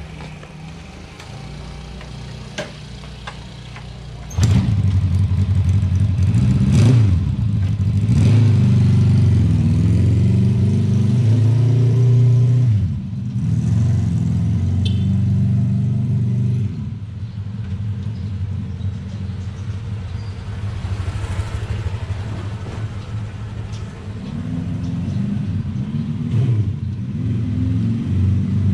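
Custom three-cylinder underbone moped engine idling, then revved hard from about four seconds in for several seconds with rising and falling pitch. It drops back to a lower, steadier run, and the throttle is blipped again near the end.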